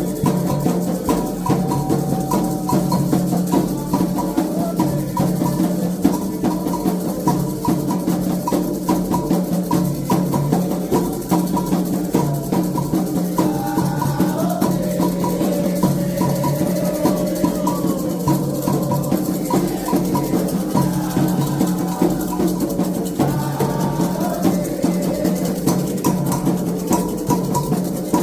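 Candomblé toque: atabaque hand drums playing a steady, driving rhythm, with lighter percussion ticking over it.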